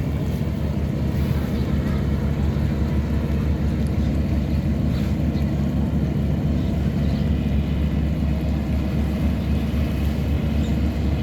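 Tugboat engine running steadily with a constant low drone while towing a loaded cargo barge.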